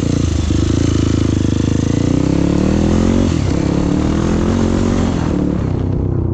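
Motorcycle engine running under way, its revs rising and falling with the throttle.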